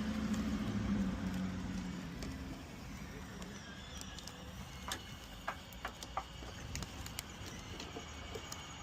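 A steady low hum that fades away after about two and a half seconds, then scattered light clicks and knocks of hands working on car body parts.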